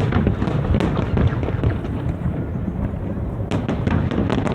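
Aerial fireworks display: a continuous rumble of shell bursts overlapping one another. Sharp cracks stand out at the start, about a second in, and in a cluster near the end.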